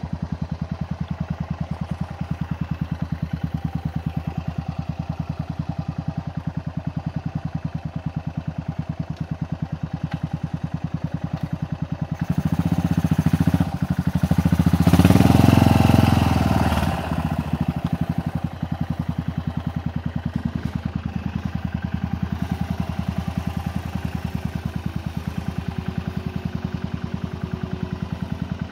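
Yamaha TT500 single-cylinder four-stroke engine running with a steady, rapid pulse. It gets clearly louder under throttle for a few seconds around the middle, then settles back to a steady run.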